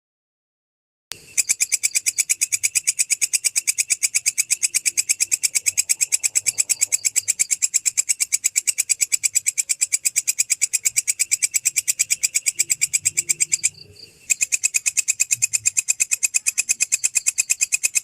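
Belalang kecek katydid stridulating: a rapid, very even train of raspy chirps that starts about a second in, with a short break about three-quarters of the way through.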